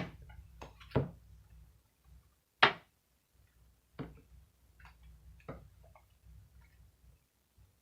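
Tarot cards being handled and laid down on a table: a few scattered taps and clicks, the loudest about two and a half seconds in.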